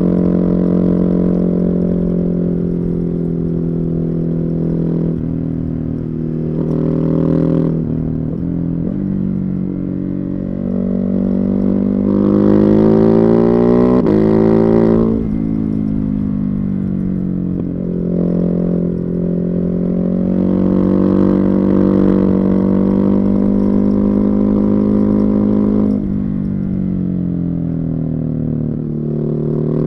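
Ducati Hypermotard 950's Testastretta 11° L-twin engine with a Termignoni exhaust, heard from the bike while riding. The engine note rises under acceleration and drops sharply at each gear change, several times over, with the hardest pull about halfway through.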